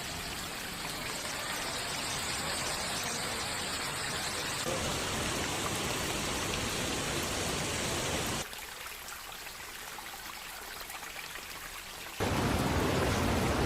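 Steady noise of heavy rain and running floodwater, changing abruptly several times as different recordings cut in, with a quieter stretch from about 8.5 to 12 seconds in and a louder, fuller rush after that.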